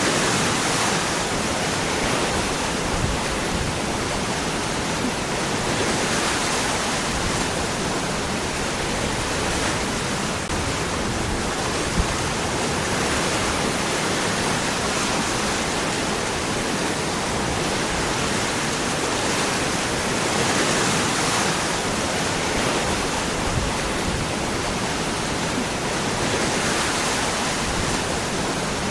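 Waterfall: water falling and splashing over rocks in a steady, dense rush, swelling slightly now and then.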